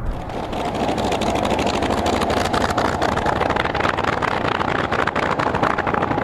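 Unlimited-class racing plane's piston engine running loud and steady, with a fast crackle through it.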